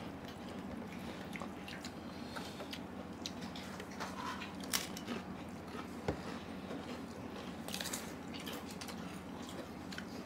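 Close-up eating sounds of biting and chewing, with many small scattered clicks and crunches over a steady low hum.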